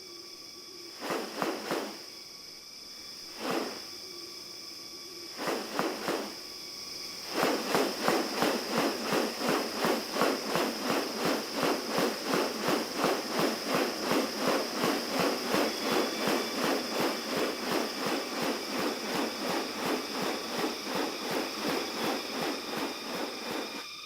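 Rainforest ambience: a steady high insect drone, with a few short raspy bursts in the first seconds, then from about seven seconds in an unbroken run of them repeating at roughly three a second.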